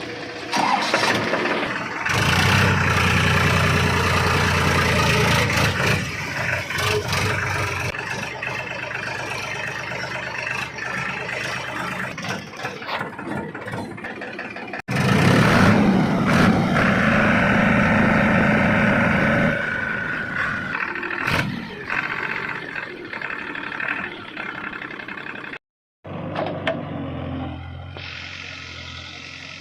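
Heavy diesel engines of a JCB backhoe loader and tractors running and revving under load. The sound is cut off abruptly twice, about halfway through and near the end, and each time picks up again at a different level.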